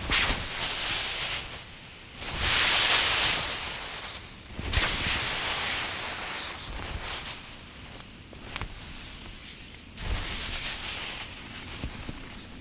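Rustling and brushing noises from a person moving about, in several long bursts, the loudest about two to four seconds in.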